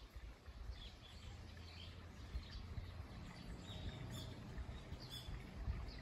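Small birds chirping in short, scattered calls, a few more together about four and five seconds in, over a faint low rumble.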